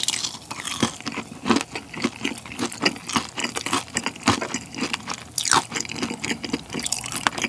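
Close-miked chewing of fried milk, a battered, deep-fried milk-custard bite with a soft, pudding-like filling. The chewing comes with many small, irregular wet mouth clicks.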